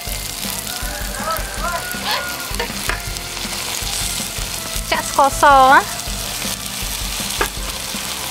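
Garlic and chopped dried chili sizzling in hot oil in a nonstick pan, stirred with a metal spatula, with a few sharp clicks. Background music plays over it, with a loud sliding phrase just past halfway.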